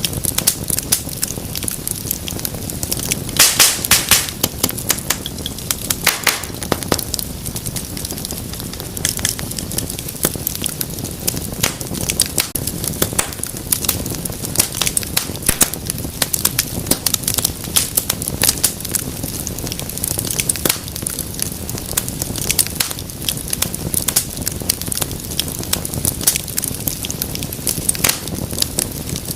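Wood fire crackling and popping steadily over a low rumble of burning, with a burst of loud sharp pops a few seconds in and more near the seven-second mark.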